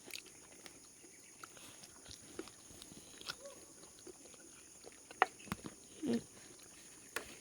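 Puppy chewing corn, faint irregular crunches and clicks of teeth on the cob, with a short low grunt-like sound about six seconds in.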